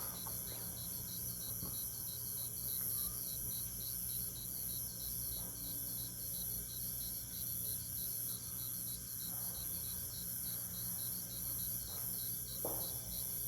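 Crickets and other night insects chirping: an even, steady pulse of chirps about three a second, over a higher continuous trill.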